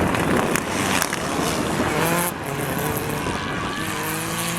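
Rally car engine at full throttle, its pitch climbing as it accelerates, dropping at a gear change and climbing again near the end, over heavy road noise.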